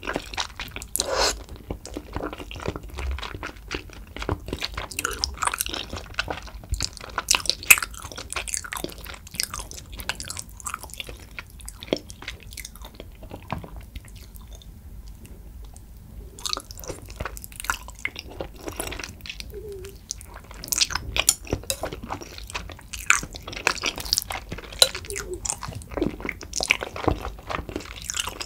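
Chewing of spicy tteokbokki: chewy rice cakes and stretchy melted cheese, with wet mouth smacks and clicks. It goes quieter for a couple of seconds about halfway through.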